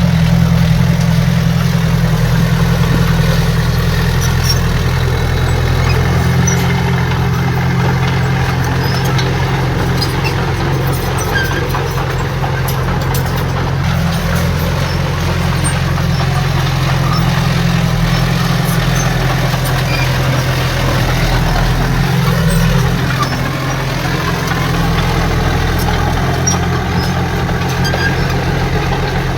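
Heavy diesel engine of earthmoving machinery running steadily at a constant speed, with little change throughout.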